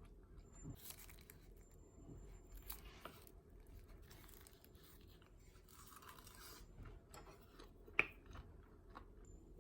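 Faint scraping and rubbing handling noises, with one sharp click about eight seconds in.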